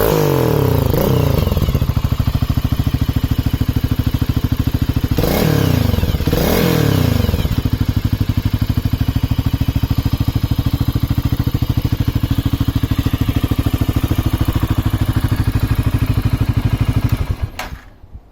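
Honda CB400SS single-cylinder engine running through an Asakura slip-on exhaust. It settles to idle from a rev at the start, is blipped twice about six seconds in, idles steadily, then is switched off near the end.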